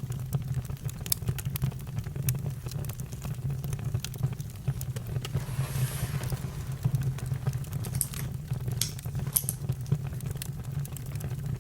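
Campfire crackling: scattered sharp pops and snaps over a steady low rumble, with a brief hiss about six seconds in.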